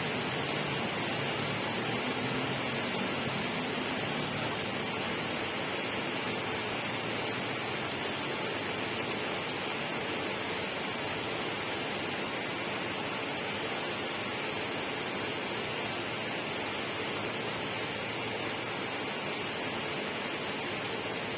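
Steady, even rushing noise that holds unchanged throughout, strongest in the upper-middle range.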